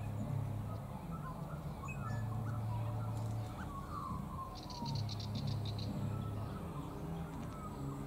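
Small birds chirping in short, gliding whistled notes, with a rapid rattling trill of about ten clicks a second near the middle. Underneath is a low hum that comes and goes.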